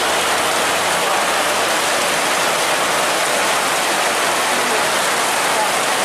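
Steady, loud hiss of falling water, even and unbroken throughout.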